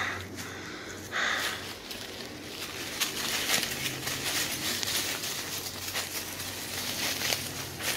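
Footsteps through dry leaves and brush, with twigs and undergrowth crackling and rustling continuously and getting busier a few seconds in.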